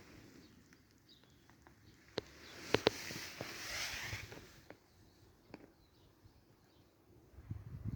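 A few faint clicks and knocks, with a short stretch of soft rustling, like handling noises. No engine is running.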